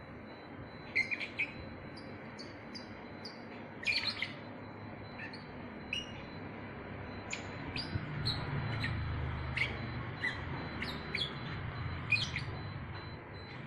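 Lovebird chirping: a string of short, sharp, high-pitched chirps, many falling quickly in pitch, coming in irregular clusters with brief gaps, over a low background rumble.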